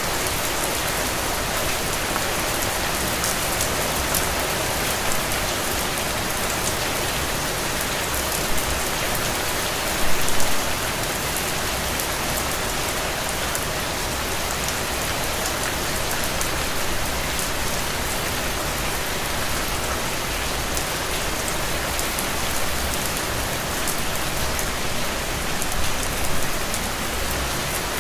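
Heavy, steady rain falling on soaked ground, a dense even hiss of drops with no thunder. It swells briefly louder about ten seconds in.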